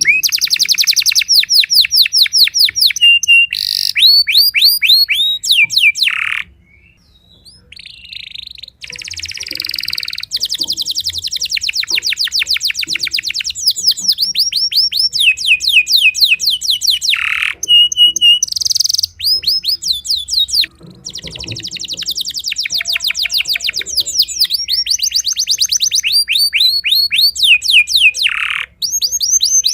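Spanish Timbrado canary singing: fast rolling trills of rapidly repeated sweeping notes, one series after another. There are two short breaks, about 7 seconds in and about 21 seconds in.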